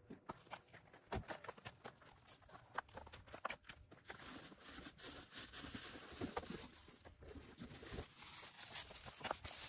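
Irregular light clicks and knocks with rustling, growing busier about four seconds in.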